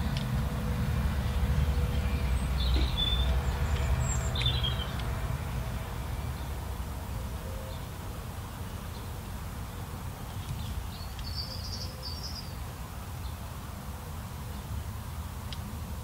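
Small birds chirping briefly, a few short high calls about three seconds in and again around eleven to twelve seconds, over a steady low rumble that is louder in the first few seconds.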